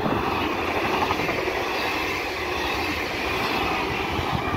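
Red DB double-deck electric regional train passing close at speed: a steady, loud rush of wheels on the rails.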